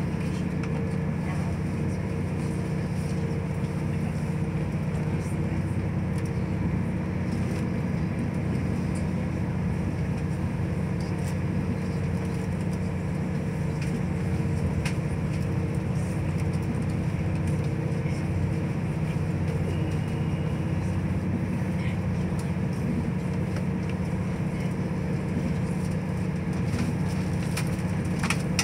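Steady running noise of a diesel passenger train heard from inside the carriage at speed: an even low rumble with a constant hum and a few faint clicks.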